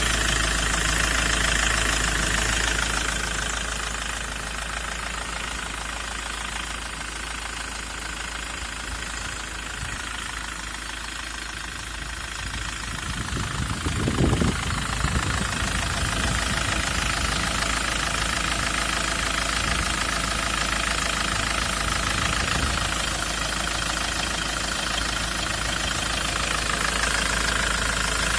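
Ford Transit's 2.4-litre turbodiesel engine running with diesel knock. There is a brief louder low burst about halfway through.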